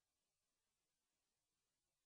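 Near silence: a faint, steady hiss with nothing else.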